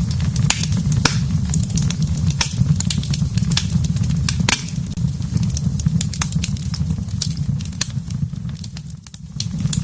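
Fireplace fire crackling and popping over a steady low rumble, with one sharp pop about halfway through. The sound briefly drops in level near the end.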